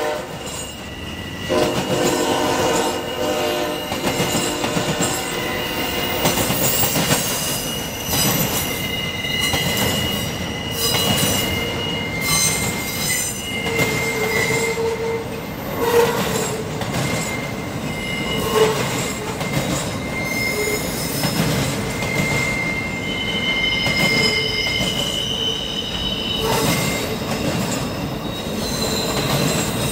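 A long train of passenger cars and flatcars rolling past, its wheels squealing in long, high, steady tones over rumble and clicking from the rail joints. A horn sounds faintly in the first few seconds.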